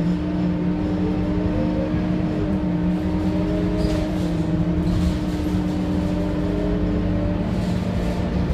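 Scania K230UB city bus under way, its 9.3-litre Scania DC9 diesel engine running steadily, with a steady whine over the low engine note.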